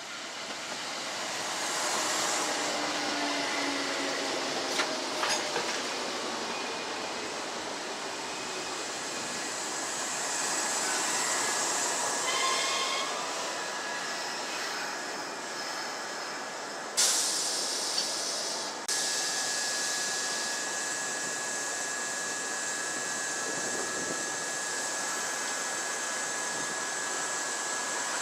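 Kintetsu electric train running at the station, its sound swelling over the first couple of seconds with falling motor tones and a few clacks from the wheels. About two-thirds of the way through a sharp burst of air hiss lasts about two seconds, followed by a steady high hum.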